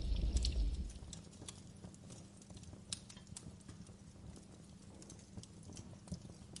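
Campfire crackling: irregular sharp pops and snaps from burning wood. A low rumble drops away about a second in, leaving the crackles over a faint hum.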